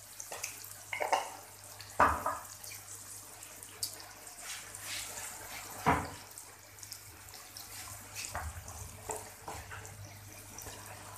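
Onions, tomatoes and green chillies sizzling in oil in a metal wok, with a wooden spatula scraping and knocking against the pan as it stirs; the loudest knocks come about two and six seconds in.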